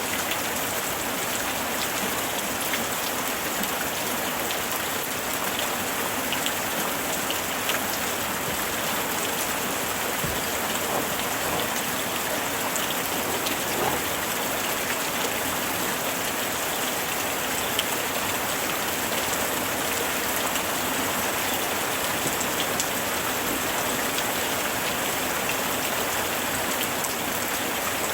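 Steady summer rain falling on a surface, with many small drops ticking through an even hiss.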